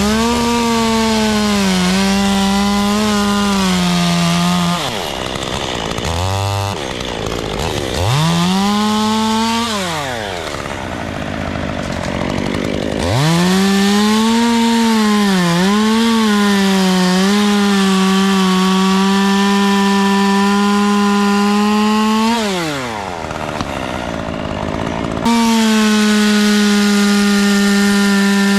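Chainsaw cutting beech wood at full throttle, its pitch sagging a little under load. It drops back toward idle between cuts, about five, ten and twenty-three seconds in, then revs up again.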